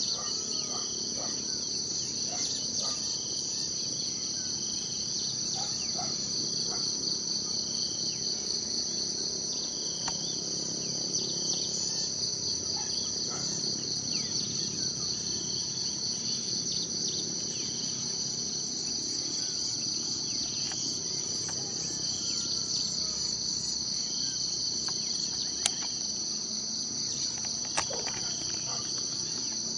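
Steady high-pitched chorus of trilling insects, crickets or cicadas, in two unbroken pitch bands. Faint short bird chirps come through here and there, and two sharp clicks are heard near the end.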